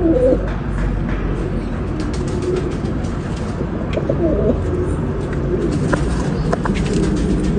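Domestic pigeons cooing, low wavering calls over a steady low rumble, with scattered sharp clicks.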